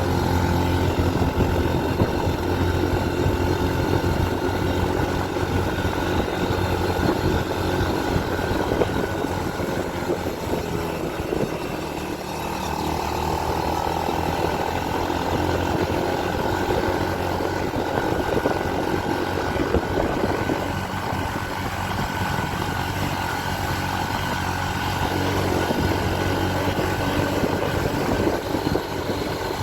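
Motorcycle engine running steadily while climbing a steep mountain road, with wind noise over the microphone.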